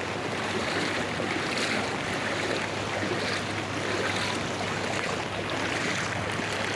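Floodwater rushing, a steady even rush of water.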